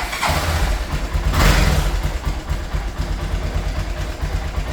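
Small motorcycle engine starting up and catching, revved briefly about a second and a half in, then settling into a steady pulsing idle.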